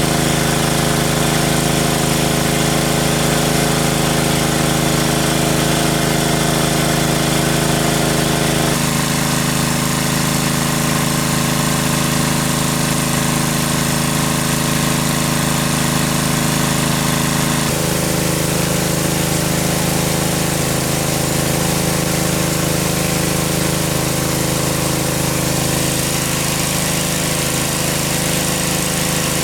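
A small engine running steadily at a constant speed. Its hum changes character abruptly twice, about a third and about two-thirds of the way through.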